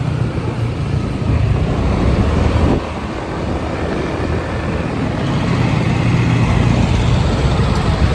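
Motorcycle engine running while riding, with road noise; it eases off nearly three seconds in, then builds up again.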